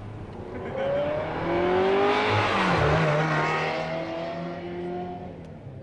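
Sports car accelerating past, its engine note climbing in pitch as it approaches, loudest about two to three seconds in, then fading as it pulls away.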